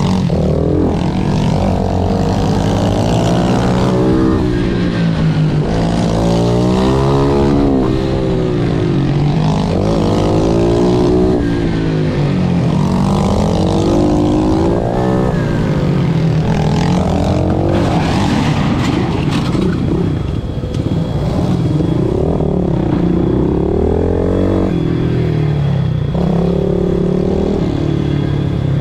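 Pit bike's small single-cylinder engine at full race pace, its revs climbing and dropping again and again through gear changes and corners, with wind rushing past the microphone.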